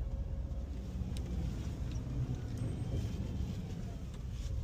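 Ford F-550 rear-loader garbage truck running, a steady low engine and road rumble heard from inside the cab as the truck drives and pulls up, with a few faint clicks.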